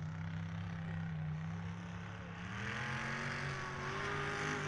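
Mud truck engine running steadily, then revving up with rising pitch about halfway through.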